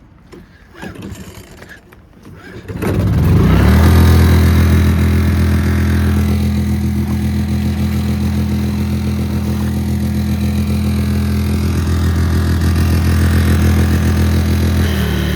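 Seiwa Jet Clean JC-1513DPN+ engine-driven pressure washer starting about three seconds in, then running steadily. Its speed drops slightly just before the end.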